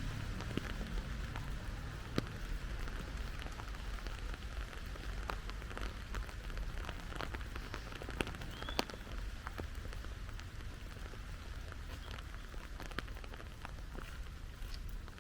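Steady rain falling, with many individual drops ticking sharply and irregularly.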